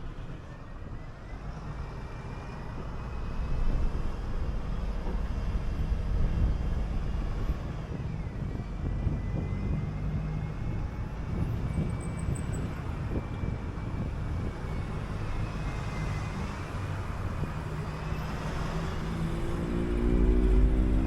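City bus engine and road noise as the bus drives along, a low steady rumble with a faint gliding whine above it. Near the end the engine picks up, its pitch rising as the bus accelerates.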